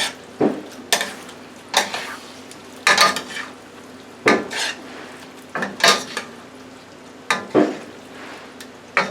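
A utensil stirring and scraping through chicken and vegetable stir fry in bourbon sauce in a frying pan, with sharp strokes against the pan, often in pairs, about every second or so.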